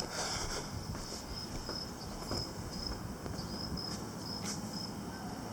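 Crickets chirping: a high, steady run of short pulses, over a faint low background noise outdoors.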